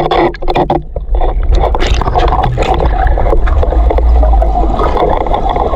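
Rushing mountain-river water with a heavy low rumble, briefly dipping about half a second in.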